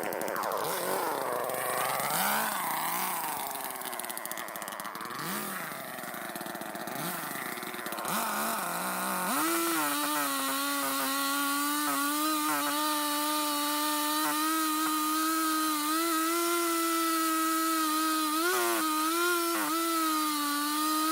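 Gas chainsaw running, its pitch swinging up and down for the first several seconds, then held at a steady high pitch from about nine seconds in as it cuts into the trunk of a dead tree.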